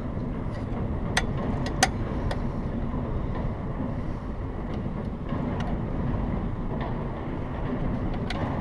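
Steady low background rumble, with a few light clicks of engine parts being fitted together by hand; the two sharpest come a little over one second and just under two seconds in.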